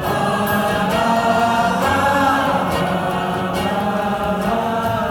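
A concert crowd singing a wordless 'ba ba ba' chorus together as a sing-along, over a steady low note from the band.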